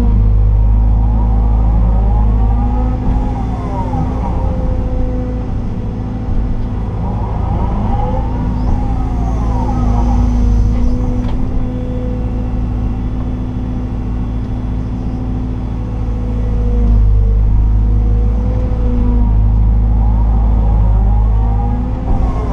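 Liebherr R926 excavator's diesel engine and hydraulics heard from inside the cab, running steadily under load. A whine rises and falls three times as the machine works through its dig, swing and dump cycles.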